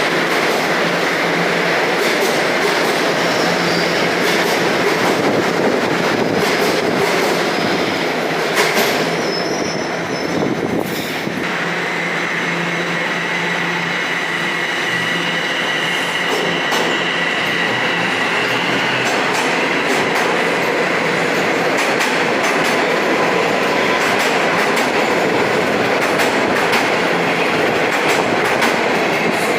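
TTC Toronto Rocket subway train moving through the station: a steady loud rumble of steel wheels on rail with scattered clicks, and a high thin squeal coming in about a third of the way through and fading out later on.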